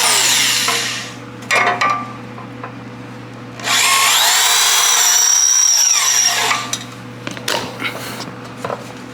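Electric drill with an 8 mm bit drilling a hole in a car bumper, run in bursts. A brief burst at the start winds down, a short blip follows, then a longer run of about three seconds speeds up, holds steady and winds down.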